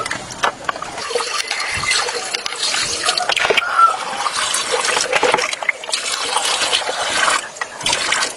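Water splashing and trickling, with scattered knocks.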